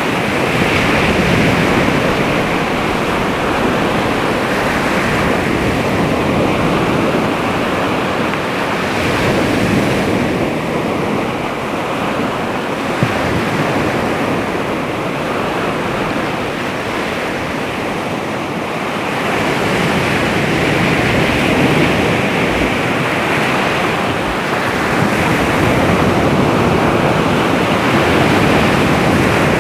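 Baltic Sea waves washing onto the shore: a steady rush of surf that swells and eases every few seconds.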